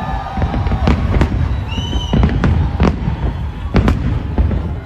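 Fireworks display: a rapid series of sharp bangs and crackles over a continuous low rumble, with a brief high whistle about two seconds in.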